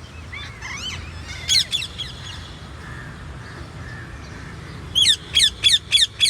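Parrot calling: a few warbling chirps and two sharp calls early, then from about five seconds in a fast run of loud, sharp repeated calls, about three a second.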